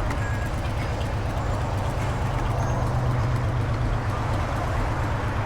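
Motorcycle engine running steadily, a little louder about halfway through.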